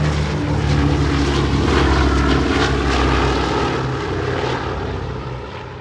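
Aircraft engine running with a steady low drone under a broad rushing noise, fading away over the last couple of seconds.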